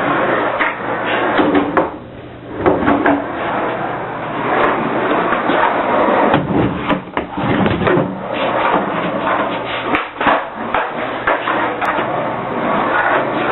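Skateboard in use: wheels rolling with a steady rumble, broken by repeated sharp wooden knocks of the deck popping and landing.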